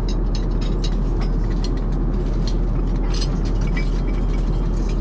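Steady, low-heavy cabin noise of an Airbus A380 airliner in cruise flight, overlaid with scattered light clicks and taps.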